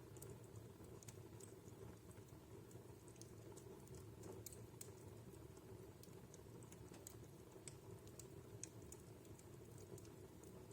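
Wood fire in a fireplace crackling faintly, with sparse, irregular sharp pops and ticks over a low steady hum.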